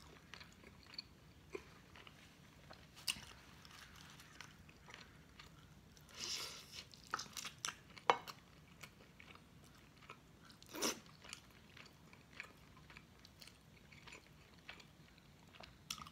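A person chewing and biting into chicken adobo with rice, eaten by hand: faint, scattered mouth clicks and soft smacks, with a few sharper clicks and a brief louder stretch of chewing about six seconds in.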